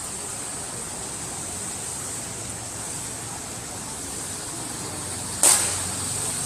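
Steady rushing hiss of heavy rain and water, with one sharp knock about five and a half seconds in.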